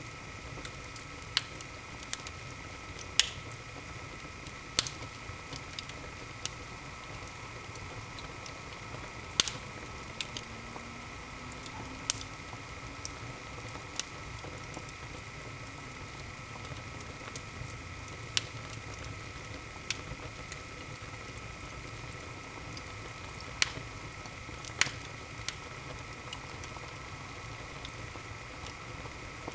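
Wood fire in an open fireplace crackling: sharp pops and snaps at irregular intervals, a few much louder than the rest, over the soft steady rush of the flames.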